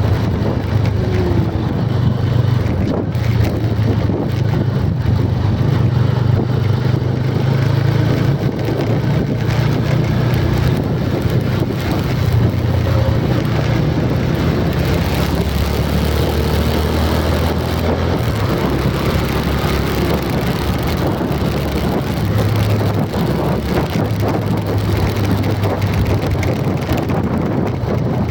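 Steady low rumble of a running vehicle, with a low droning hum that shifts slightly in pitch and a rushing noise over it.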